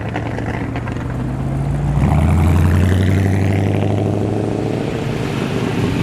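Performance car engine rumbling past at low speed, its note rising and getting louder about two seconds in as it picks up revs.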